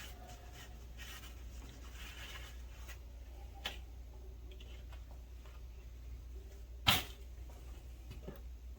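Soft rubbing of a rag wiping spilled brake fluid off the master cylinder area, then a small click and, about seven seconds in, one sharp knock of a part or tool set down, over a steady low hum.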